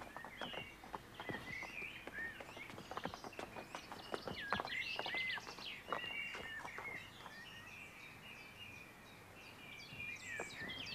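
Birds chirping and singing outdoors, with scattered irregular knocks and clicks.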